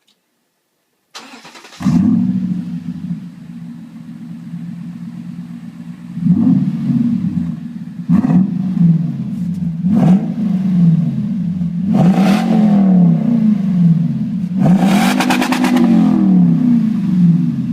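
Toyota Tundra's exhaust as the engine is cranked briefly and fires up about two seconds in, then idles. It is revved several times: short blips around 6, 8 and 10 seconds, and longer revs around 12 and 15 seconds that rise and fall back to idle.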